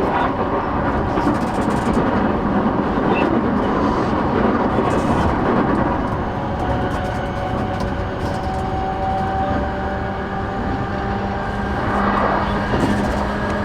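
Cabin sound of a JR East E233-8000 series electric train running between stations: steady rumble of wheels on rail with the hum of the traction motors. The motors' steady tones stand out more clearly from about halfway through.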